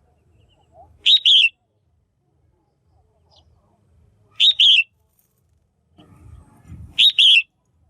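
Female red-whiskered bulbul calling: a short two-note call given three times, a few seconds apart. It is the kind of call used to stir up male bulbuls.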